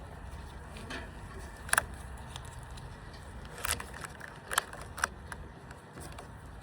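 Rubber bands being stretched and snapped onto a watermelon, giving about four sharp snaps a second or so apart over a low rumble.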